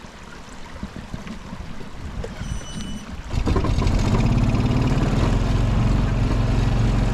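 A four-wheeler (ATV) engine starts a little over three seconds in and then idles steadily. Before it starts there is only faint outdoor background noise and a brief high tone.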